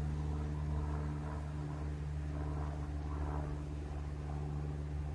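Boat motor running steadily at a constant low speed, an even hum with no change in pitch.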